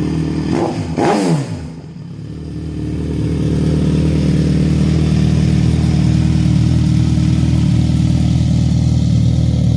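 2024 Suzuki GSX-S1000's inline-four engine through a full Dominator aftermarket exhaust, revved sharply once about a second in, the pitch rising and falling quickly, then running steadily. The stock catalytic converter has been removed.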